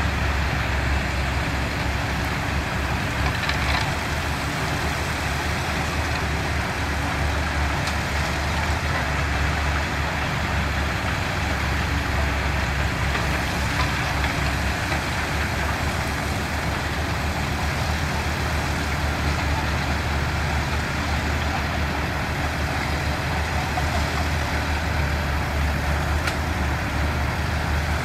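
Diesel engine of heavy earthmoving machinery running steadily with a low, even drone, with a few faint clicks here and there.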